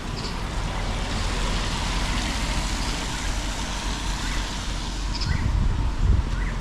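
A motor vehicle's engine running, with its noise swelling and easing as it moves along the street. A few short bird chirps come through.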